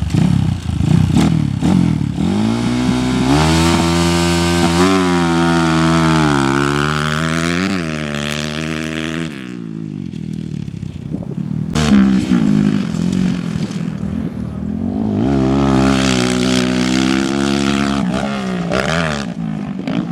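Off-road motorcycle engine revving hard under acceleration, its pitch climbing and wavering with throttle and gear changes. It eases off about ten seconds in, then builds up again.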